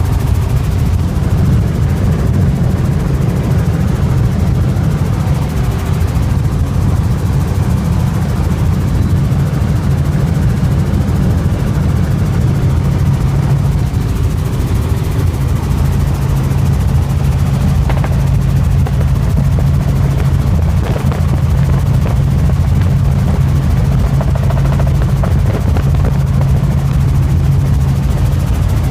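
Helicopter running in flight: a loud, steady low drone of engine and rotor with an even hum, unchanging throughout.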